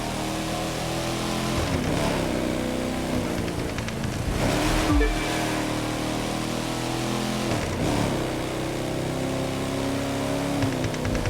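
Muscle car's engine running, its pitch holding steady and then shifting about every three seconds.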